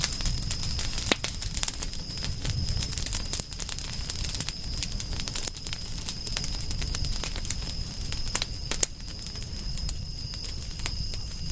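Campfire burning and crackling: a dense run of small snaps and pops, with louder pops about a second in and near the end, over a low rumble and a steady thin high tone.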